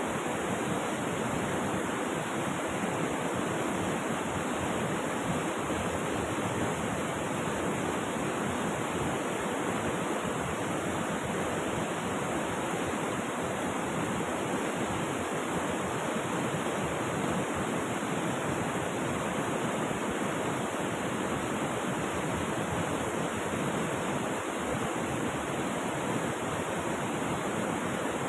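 Rushing river water, a steady, unbroken hiss of water flowing and falling.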